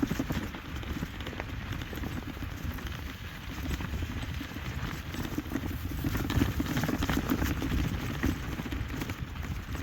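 Irregular steps and rustling on the forest floor during a walk, over a continuous low rumble.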